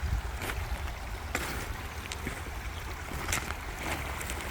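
A few footsteps on rocks and gravel going down a slope, sharp irregular steps about a second apart, over a steady rumble of wind on the microphone and a rain-like hiss.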